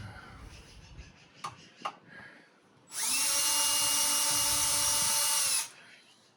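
Power drill running for about two and a half seconds, winding up at the start and winding down at the end, after a couple of light clicks.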